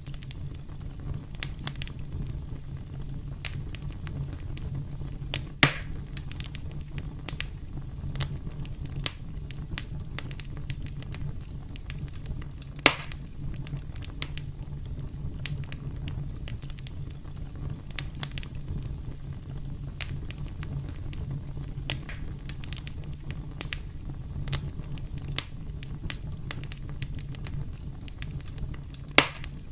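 Campfire crackling: a steady low rumble of burning wood with frequent sharp snaps and pops, three of them louder, about six seconds in, about thirteen seconds in, and near the end.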